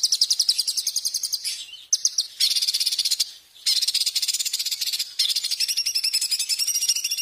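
A small songbird's fast, high-pitched trilled song: rapid runs of sharp repeated notes in bursts of one to two seconds, with short breaks between them.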